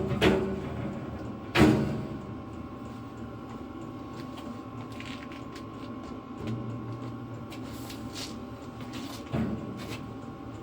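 Knocks and clunks of metal parts being handled and fitted by hand: a few sharp knocks at the start, one about a second and a half in and another near the end, with quieter handling noise between.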